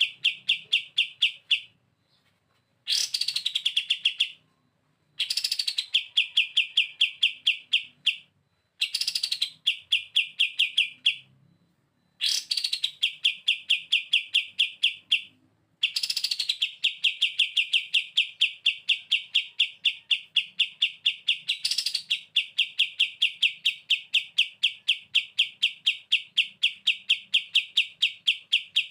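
Kapas tembak songbird giving its 'bren' song: fast machine-gun-like rattles of evenly repeated notes, about ten a second. Each phrase opens with a brief higher note. The rattles come in bursts of a few seconds with short gaps, then run unbroken through the second half.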